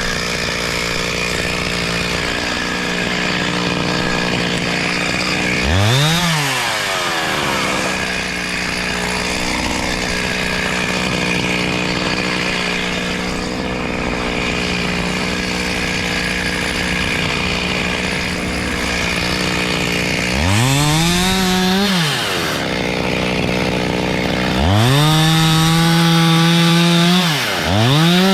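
Chainsaw running at high speed while felling a tree. The engine pitch dips and climbs back about six seconds in, again around twenty-one seconds, and several times near the end as the throttle is let off and opened again.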